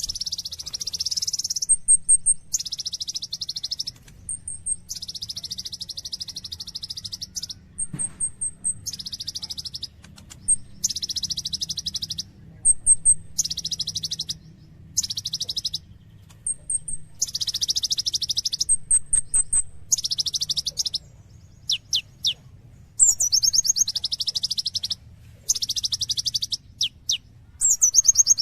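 Kolibri ninja (Van Hasselt's sunbird) singing: bursts of rapid, high-pitched trills about a second long, one after another with short pauses, mixed with brief thin high chips and a few quick downward sweeps near the end. A faint low hum runs underneath.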